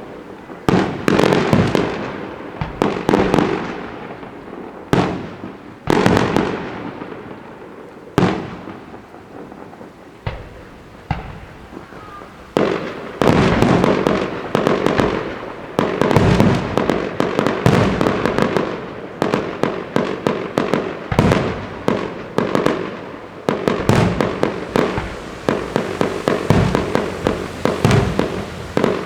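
Fireworks going off: sharp bangs about a second apart at first, thinning out about eight to twelve seconds in, then a dense, rapid barrage of bangs.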